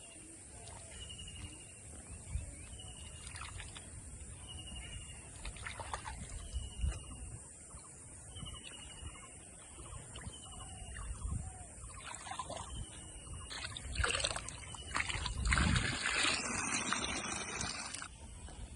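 Outdoor ambience with a short high chirp repeating about once a second, scattered knocks, and a louder stretch of rough, scraping noise near the end.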